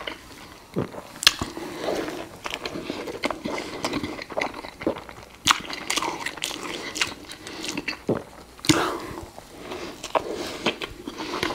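Close-miked biting and chewing of a crispy fried-chicken burger: irregular crunches and wet mouth clicks, with a few sharper, louder bites.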